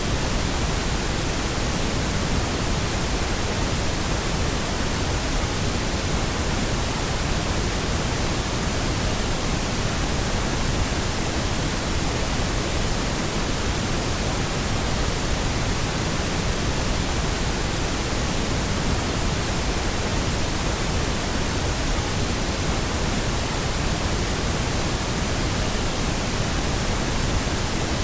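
Steady pink noise: an even, unchanging hiss spread across the whole range, with no variation.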